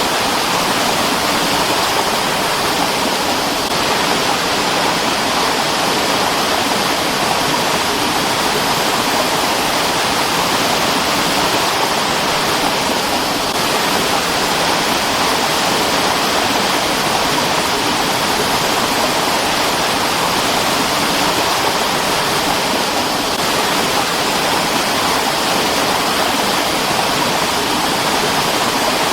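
Mountain stream rushing over rocks: a steady, full hiss of running water that does not change.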